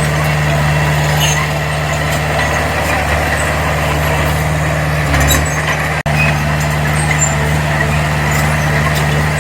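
Heavy diesel engine of earthmoving equipment running steadily, with scattered light clanks. About six seconds in, the sound cuts out for an instant.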